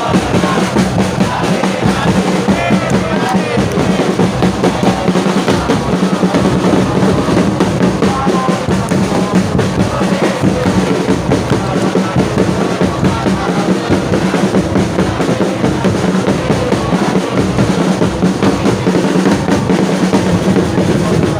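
Stadium crowd of football supporters singing a chant together, driven by a steady beat of bass drums.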